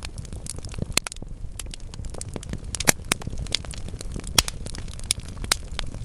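Wood fire crackling in a fireplace: a steady low rumble of burning logs with frequent small crackles and a few sharp, louder pops.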